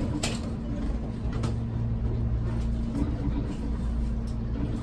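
Tobu local train running slowly, heard from inside the passenger car: a steady low hum with a few sharp clicks.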